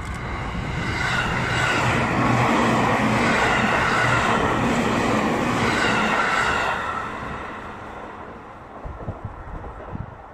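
E653-series electric multiple unit passing close by at speed: wheel-on-rail noise with a steady motor whine, building over the first couple of seconds, loudest through the middle and fading away after about seven seconds.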